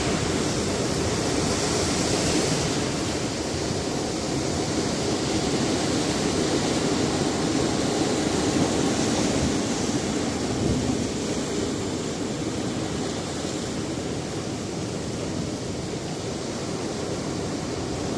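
Sea surf on a rocky shore: a steady rushing wash of waves with no single clear break, easing slightly toward the end.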